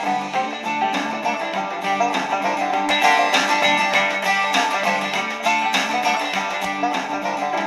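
Guitar-led music playing through the Sony ICF-SW7600GR portable radio's built-in speaker, received on FM from a small transmitter. The sound is thin, with no deep bass.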